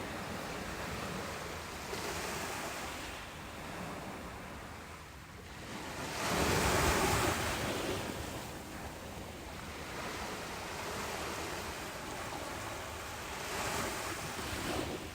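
Ocean surf washing on a beach: a continuous hiss of water that swells and ebbs, with the largest wave breaking about six seconds in and smaller ones around two seconds and near the end.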